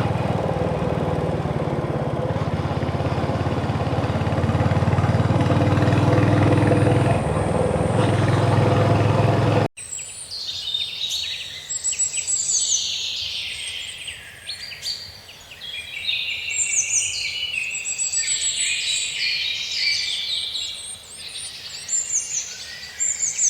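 Royal Enfield Hunter 350's single-cylinder engine running steadily while riding, with road and wind noise. About ten seconds in it cuts off abruptly to birds chirping and singing.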